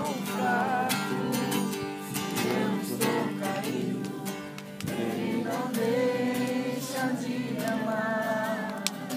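A group singing a worship song together, accompanied by strummed acoustic guitar.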